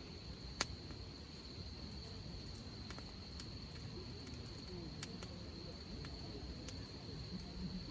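Hardwood campfire crackling, with a sharp pop every second or two. A steady high insect trill, crickets, runs underneath.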